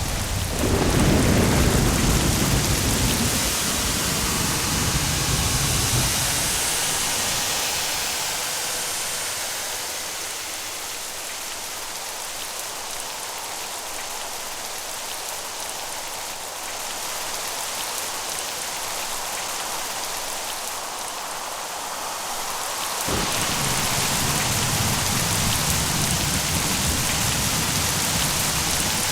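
Steady heavy rain with a low rumble of thunder that is loudest a second or two in and drops away after about six seconds. A low rumble returns suddenly about three quarters of the way through under the rain.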